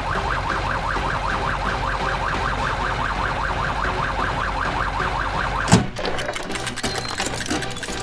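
Cartoon siren sound effect warbling rapidly at about five cycles a second. It cuts off about three quarters of the way in with a sudden loud crash, the loudest moment, followed by scattered clattering.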